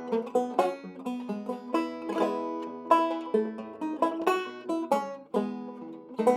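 Circa 1923 Weymann Keystone State guitar banjo playing a classic-style rag, a quick run of plucked notes and chords.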